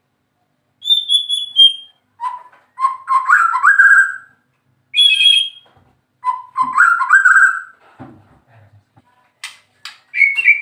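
White-rumped shama singing: a run of clear whistled phrases with short pauses between them, some climbing in steps of pitch.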